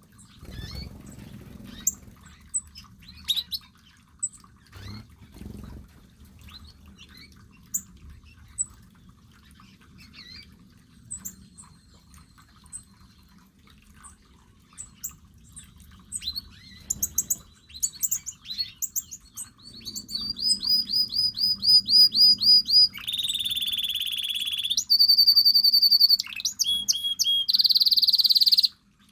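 Small aviary birds chirping now and then, then from about halfway a loud song of rapid repeated notes and steady trills, each phrase lasting a second or two before the pitch changes.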